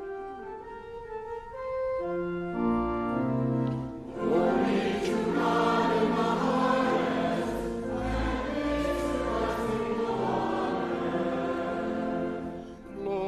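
Church organ playing sustained chords, with many voices joining in song about four seconds in, singing together over the organ in a liturgical hymn.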